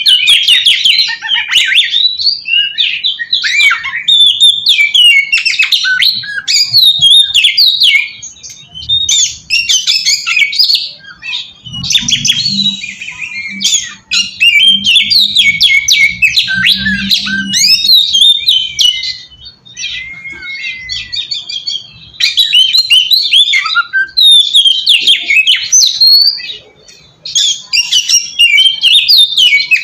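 Oriental magpie-robin (kacer) singing loudly and continuously: a fast run of varied, high whistled and chattering phrases, broken by a few short pauses.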